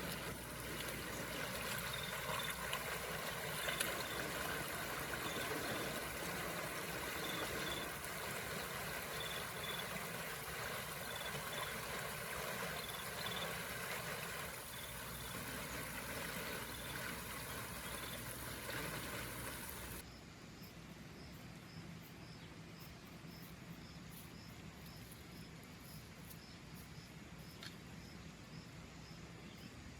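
Forest ambience: a steady hiss with a short high chirp repeating about once a second. About two-thirds through it changes suddenly to a quieter background with a higher chirp repeating about twice a second.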